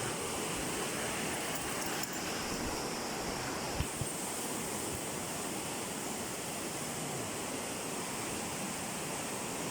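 River in full flood after torrential rain, its fast water rushing as a steady, even noise. A brief low thump about four seconds in.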